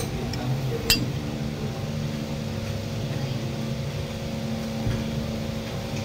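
A single sharp clink of tableware about a second in, over a steady low room hum.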